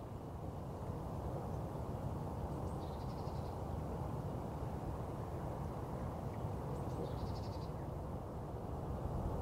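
Steady low outdoor rushing noise with a bird giving two short, high calls, about three and seven seconds in.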